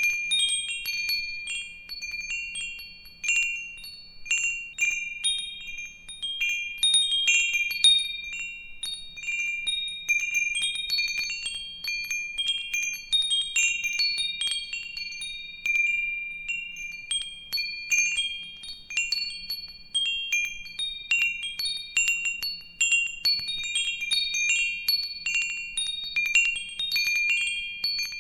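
Wind chimes jingling continuously, their high metal tones struck irregularly several times a second and ringing on as they overlap.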